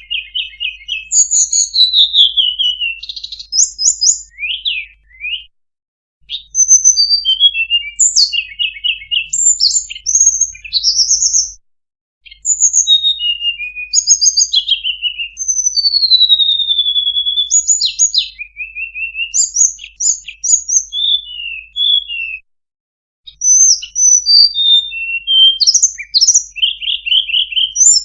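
Recorded song of a tledekan, a Cyornis blue flycatcher, played as a bird-catching lure: a fast, varied run of high whistles, falling and rising glides and short rapid trills. It breaks off into dead silence three times, briefly, where recorded segments are joined.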